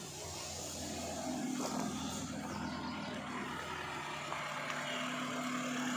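Maruti Gypsy's 1.3-litre four-cylinder petrol engine idling steadily.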